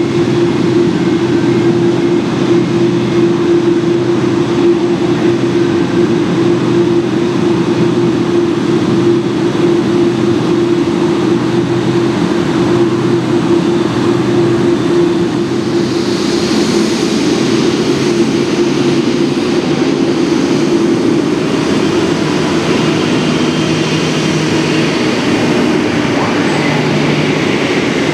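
Boeing 747-8's four jet engines running steadily at low power, a constant hum with a steady drone. About halfway through, a hiss in the upper range grows stronger and the engine tones shift.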